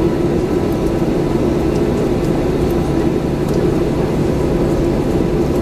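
Steady engine noise of a Boeing 737-900 heard inside the passenger cabin, its CFM56-7B turbofans running at a low, even setting before takeoff: a constant hum and rush with a faint steady whine.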